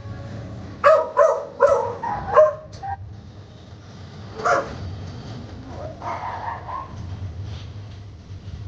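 A dog barking: a quick run of about four barks in the first few seconds, then a single bark about halfway through and a few softer ones later.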